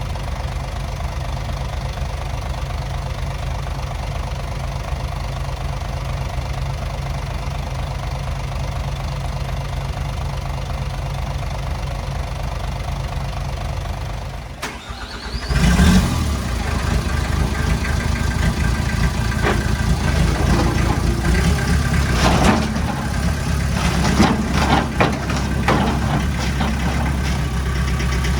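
Heavy-equipment diesel engine idling steadily. About halfway through, the sound drops briefly, then a louder engine working under load takes over, with repeated sharp metallic clanks and knocks.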